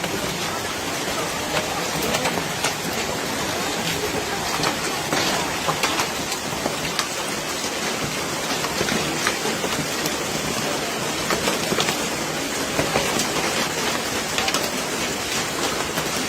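Heavy hailstorm: a steady hiss of pouring rain, with many sharp ticks of hailstones striking hard surfaces.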